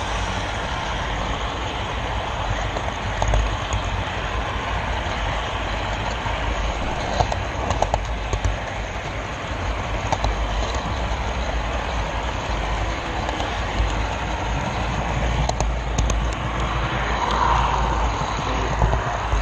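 Model railroad train rolling along the track, picked up by a GoPro camera car riding on it: a steady rumble from the wheels with scattered clicks, as at rail joints.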